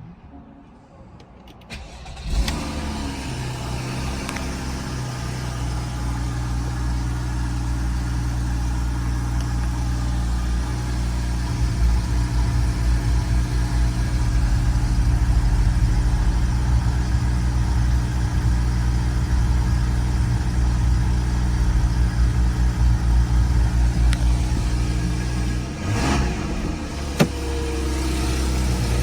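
2014 Porsche Cayman's flat-six engine cold-started: about two seconds in it catches with a short flare in revs, then settles into a steady fast idle. Near the end the idle note wavers briefly, and a single click follows.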